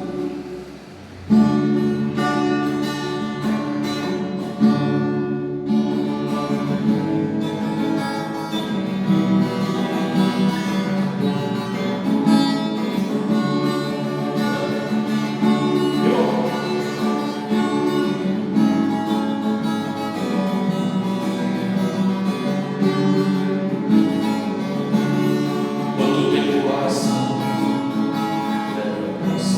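Acoustic guitar (violão) playing a chordal instrumental introduction, coming in sharply about a second in and carrying on steadily.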